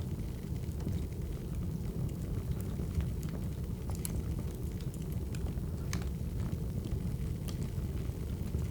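Crackling wood fire: a steady low rumble with scattered sharp pops and snaps.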